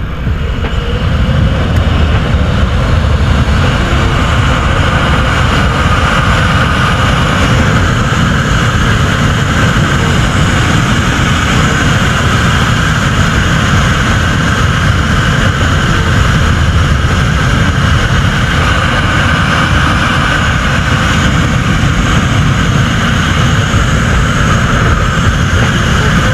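Aircraft engine running steadily, a loud, even noise with a deep low rumble and a constant higher whine.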